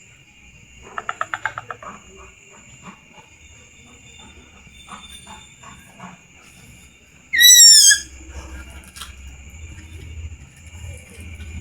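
Dedes chicks calling for their mother, used as a bird lure. About a second in comes a quick run of about ten short notes, then softer scattered notes. About seven seconds in there is one loud downward-sliding whistled call. A steady high drone runs underneath throughout.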